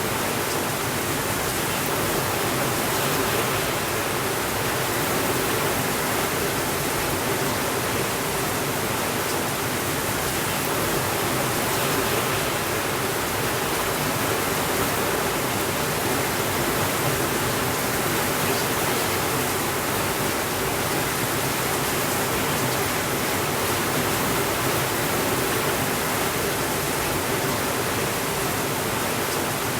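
Steady rainfall, an even unbroken hiss that keeps the same level throughout.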